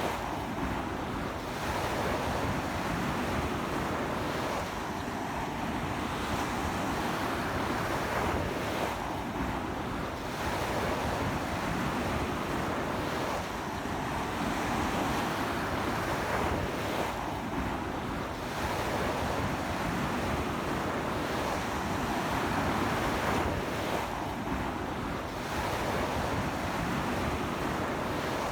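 Strong ocean surf breaking continuously on a sandy beach, rising and easing every few seconds, with sea wind buffeting the microphone.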